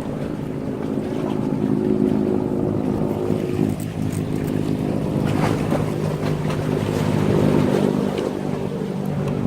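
Boat engine running steadily with a low, even hum, over the wash of sea waves.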